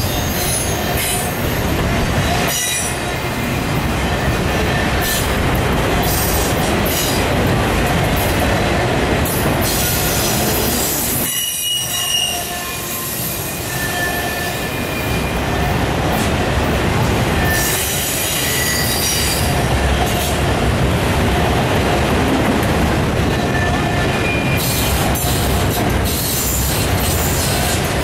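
Autorack freight cars rolling past close by: a steady rumble of steel wheels on rail with short, high-pitched wheel squeals coming and going, and a brief dip in loudness about halfway through.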